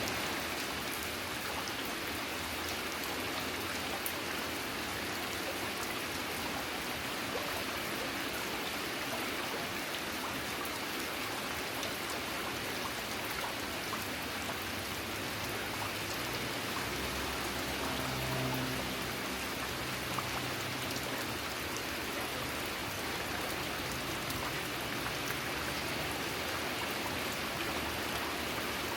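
Steady rain falling, with scattered individual drops ticking. A faint low hum comes in about two-thirds of the way through.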